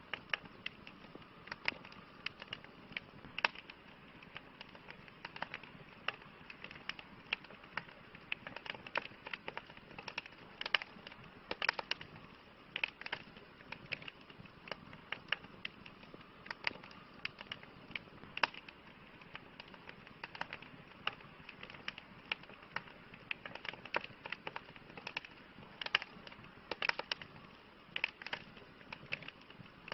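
Campfire crackling: many sharp, irregular pops and snaps, several a second, over a soft steady hiss of burning.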